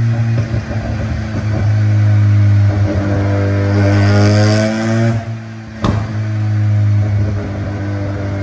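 Mazda RX-7 FD's twin-rotor rotary engine running at a steady idle, revved up over a couple of seconds around the middle, then dropping back with a single sharp crack before settling into idle again.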